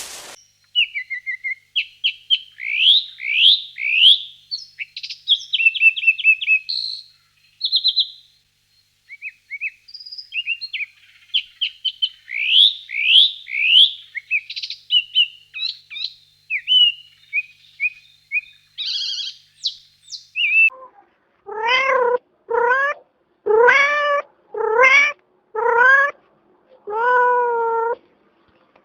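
A songbird singing for about twenty seconds: quick rising whistles and rapid trills, high-pitched. Then a domestic cat meows about seven times, each meow about a second long, rising and then falling in pitch.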